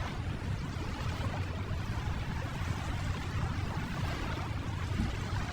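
Ocean waves rushing against the shore in a steady wash of surf.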